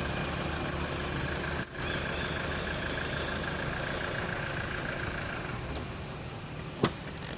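A motor vehicle's engine running steadily, fading after about five seconds. Two short, loud, sharp sounds come about a second apart early on, and there is a single click near the end.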